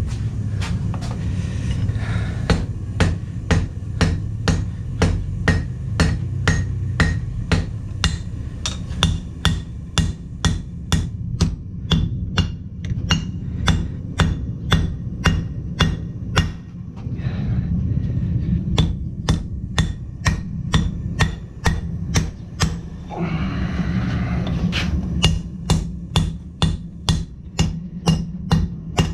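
Hand hammer striking hot steel on an anvil in a steady rhythm of about two blows a second, each blow ringing; the blows pause twice briefly. A steady low hum runs underneath.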